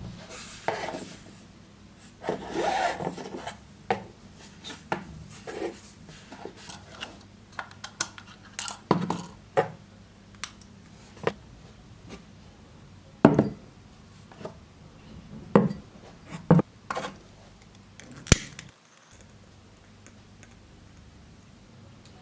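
Hands handling objects: a stretch of rubbing or scraping, then scattered knocks and taps of things set down on a hard surface. It goes quieter near the end.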